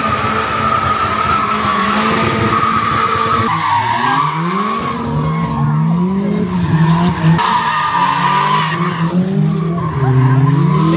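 Car doing a burnout: the tires squeal steadily over a high-revving engine. From about three and a half seconds in, the revs rise and fall again and again.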